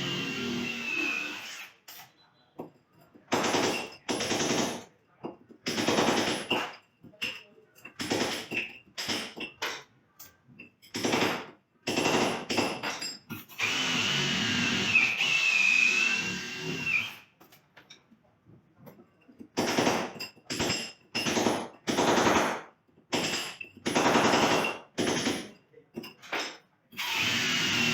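Power drill run in many short bursts of under a second, with gaps between them; a few longer runs of two to three seconds carry a wavering high whine.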